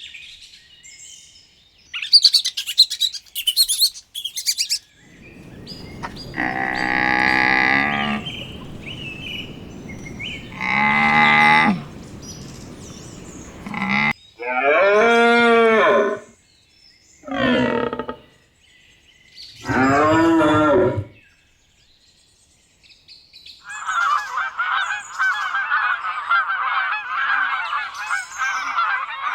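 Cattle mooing: five long, pitched calls in a row, after a few brief high bird chirps near the start. A dense chatter of many birds calling fills the last few seconds.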